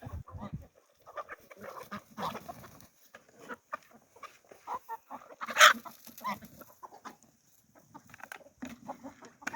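Chickens clucking at feeding time: scattered short calls from the flock, with one louder call about halfway through.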